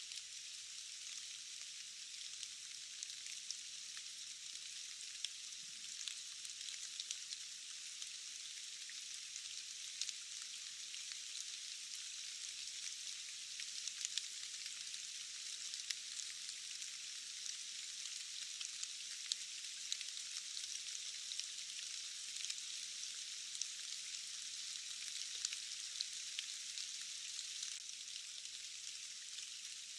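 Steady rain: an even high hiss with many small scattered drop ticks.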